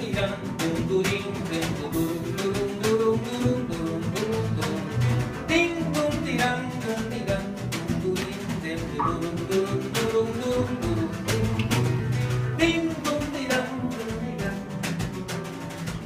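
Live band music: plucked acoustic guitar and other instruments playing steadily, with frequent percussive strikes.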